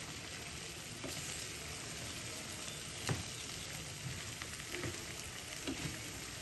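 Boiled black chickpeas sizzling steadily as they fry in oil and spices, with a spoon stirring and knocking against the pan a few times; the loudest knock comes about three seconds in.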